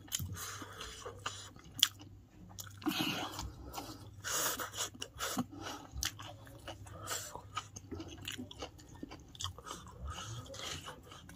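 A person chewing and biting a mouthful of chow (fried noodles), with many short, irregular clicks and soft mouth noises.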